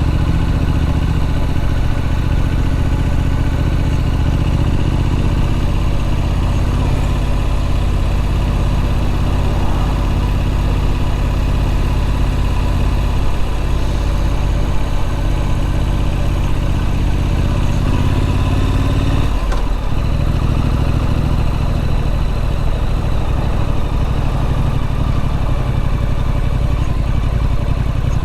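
Triumph Street Scrambler's 900 cc parallel-twin engine running steadily on the move. There is a brief break in the engine note about two-thirds of the way through.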